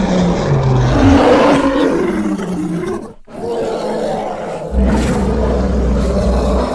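Sound-effect bear roars, made for the extinct short-faced bear Arctotherium: two deep, growling roars with a brief break about three seconds in.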